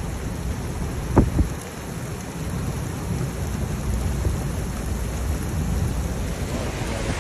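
Heavy rainstorm: steady rain noise with a low thunder rumble underneath, and a brief sharp knock about a second in.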